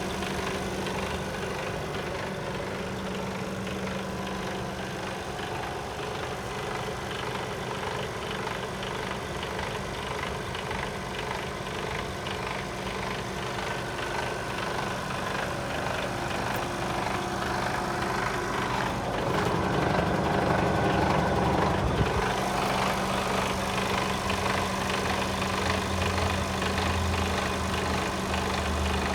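Mercedes-Benz Actros 1840's 400 bhp Euro 6 diesel engine idling with a steady hum, swelling louder for a few seconds about two-thirds of the way through.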